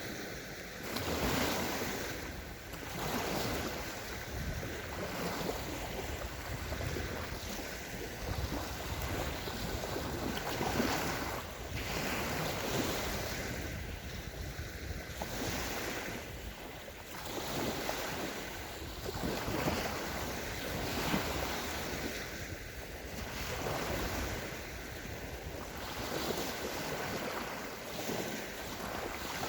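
Small waves of the Sea of Azov breaking and washing onto a sandy beach, surging and fading every few seconds, with wind on the microphone.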